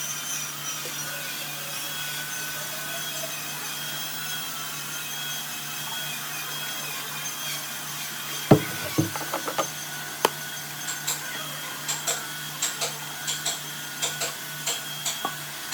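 Woodworking on a wooden piece: a steady machine hum, then a sharp knock about halfway through, followed by a run of light taps and clicks, about two a second.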